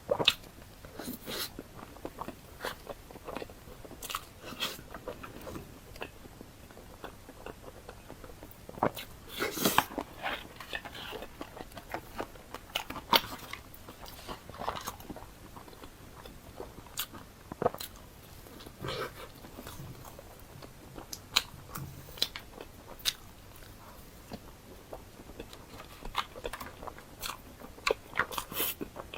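Close-miked eating: biting and chewing mouth sounds, with irregular sharp clicks, smacks and crunches and a louder cluster about ten seconds in.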